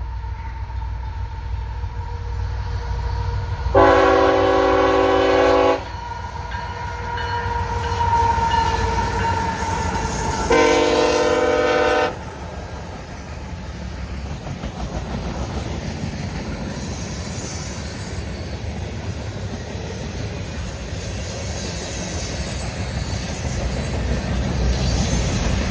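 CSX freight locomotive's air horn sounding two long blasts about six seconds apart as the train approaches, the first about two seconds long and the second a little shorter. Afterwards the train's rumble and wheel noise build as it comes through the crossing.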